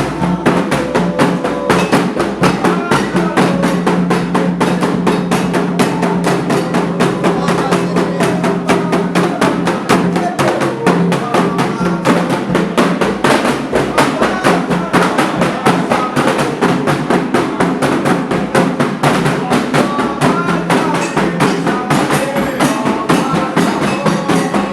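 Candomblé ritual drumming: atabaque hand drums play a fast, continuous rhythm, with voices holding a chant over them.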